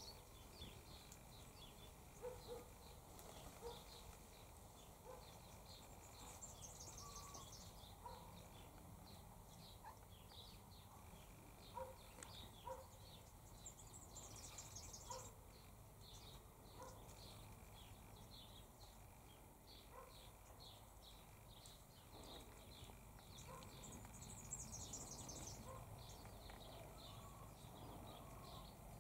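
Faint chirping and twittering of several birds, short high notes repeating throughout, with three brief bursts of higher-pitched twittering.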